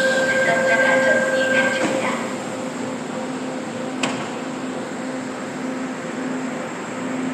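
Korail Line 4 electric commuter train standing at the platform before departure, its equipment running steadily with a low tone pulsing about twice a second. Two held tones sound for the first two seconds, and there is a single sharp click about four seconds in.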